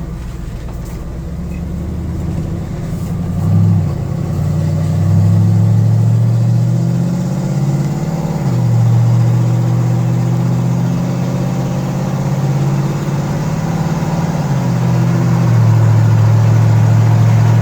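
5.3-litre LS V8 in a 1949 Chevrolet pickup running under way, its pitch climbing and then dropping back a few times as the truck accelerates and shifts gears.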